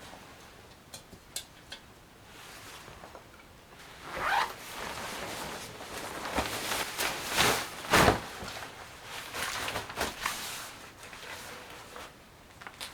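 Handling noises: a few light clicks, then a run of swishing, rasping strokes, like gear or a zipper being worked.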